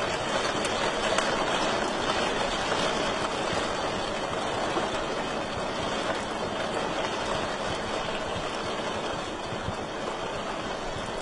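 Wood fire crackling in a fireplace: a steady hiss with scattered small pops.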